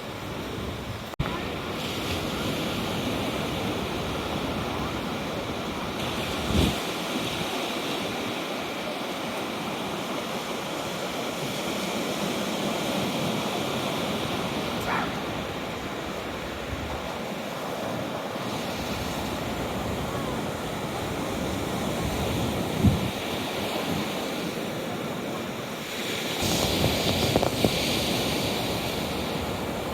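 Rough sea waves breaking and washing against the seawall, a steady surf noise with a couple of heavier thumps, louder near the end as waves splash up over the promenade steps. Some wind on the microphone.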